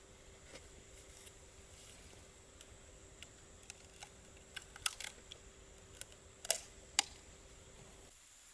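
Clam shells clicking and tapping as they are handled and opened: scattered sharp clicks, the loudest a little before five seconds in and twice more around six and a half and seven seconds, over a faint steady hum.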